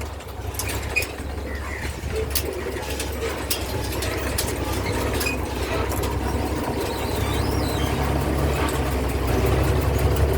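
A steady low engine-like rumble that grows slowly louder, with a few faint short bird chirps above it.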